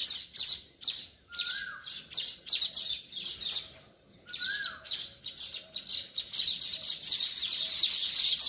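Many small birds chirping rapidly and continuously in a dense chorus, with a short drop-out about four seconds in. Two lower notes that rise and hold stand out from the chatter, about one and a half and four and a half seconds in.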